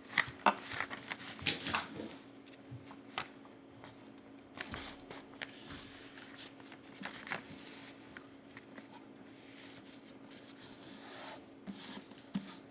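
A square sheet of origami paper being folded and creased by hand: soft, intermittent rustles and crinkles of the paper.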